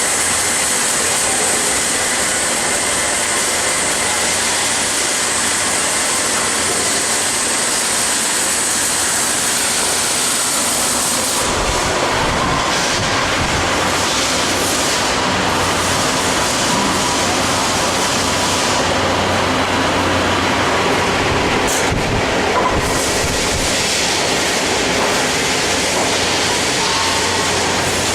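Automatic double-gun ring seam welding machine running: a loud, steady mechanical noise with a hiss. About eleven seconds in, the hiss thins and the noise turns lower and rumblier.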